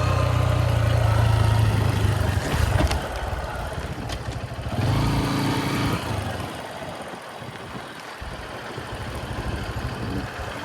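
Honda XR150L's small single-cylinder engine running steadily, with a noisy hiss over it. The engine note changes about five seconds in and fades about six seconds in, leaving a quieter hiss.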